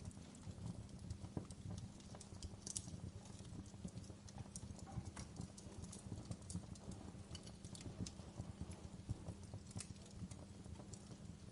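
Wood logs burning in a fireplace, crackling steadily with dense small pops and a few sharper snaps, over a low steady rumble.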